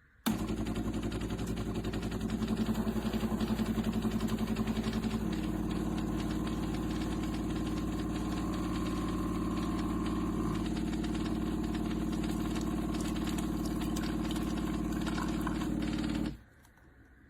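De'Longhi TrueBrew's built-in coffee grinder motor running, grinding beans: a steady mechanical hum that starts abruptly, shifts slightly in tone about five seconds in, and cuts off abruptly near the end.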